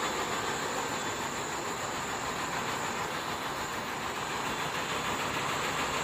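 Steady machinery noise of a punch-press workshop floor, an even rush with a constant high-pitched whine above it.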